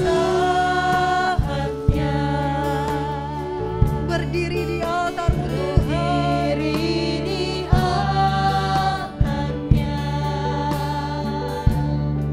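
Christian worship song performed by a band with a group of singers: sustained sung lines over bass, keys and drums keeping a steady beat.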